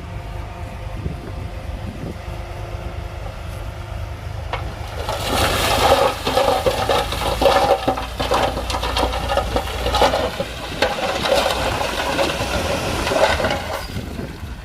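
Heavy diesel earthmoving machinery running steadily. About five seconds in, a loud rush of loose stone rattling and sliding begins and lasts about nine seconds, full of sharp clatters, then fades out.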